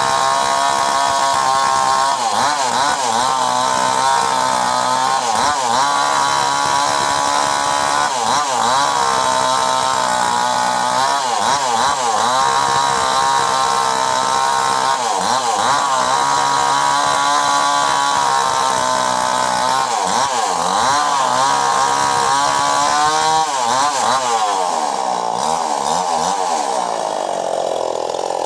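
Mini chainsaw running, its pitch dipping and recovering every second or two, then sliding lower over the last few seconds.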